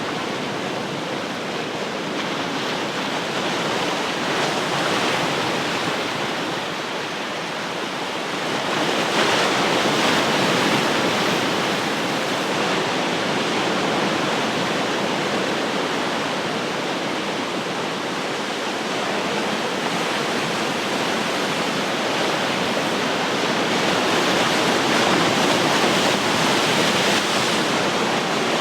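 Ocean surf: a continuous wash of breaking waves, swelling louder about nine seconds in and again near the end.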